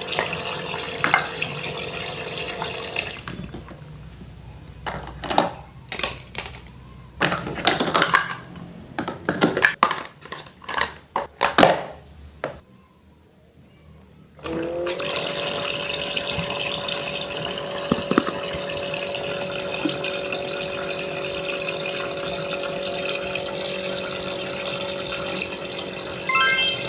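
Water running from a small tap with a steady hum under it. It stops after about three seconds, giving way to a run of separate knocks and clicks and then a short quiet. The water and hum start again about halfway through and run on steadily.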